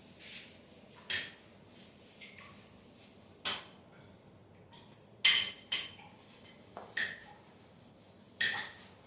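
Hard objects, likely metal tools or fittings, clinking and knocking as they are handled: about seven sharp strikes at irregular intervals, the loudest a little past halfway.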